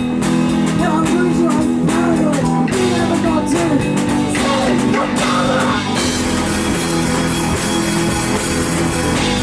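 A live rock band playing, with guitar and a drum kit. About six seconds in, the sound thickens and fills out the high end, as the full band comes in harder.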